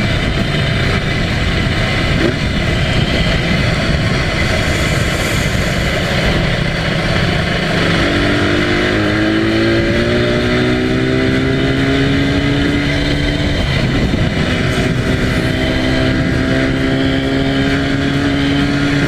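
Motorcycle with a Yamaha TZR250 (1KT) two-stroke parallel-twin engine running at expressway speed, its engine note under heavy wind noise. About eight seconds in, the pitch climbs steadily as it accelerates. It dips briefly at a gear change around fourteen seconds in, then climbs again.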